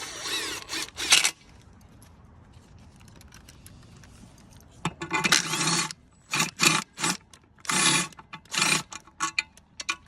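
Metal tools and bike parts clinking, rattling and scraping in short bursts as they are handled: one cluster at the start, then a string of bursts over the second half.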